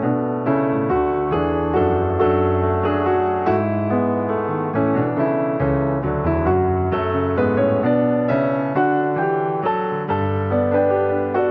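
Background piano music: a steady, flowing run of notes, several a second, with a low bass line underneath.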